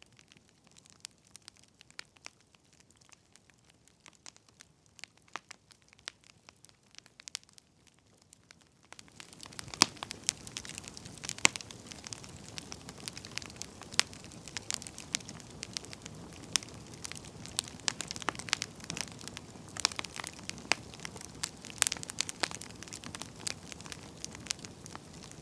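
Wood campfire crackling with scattered sharp pops. About nine seconds in it suddenly gets louder, with a steady hiss under denser crackles and pops.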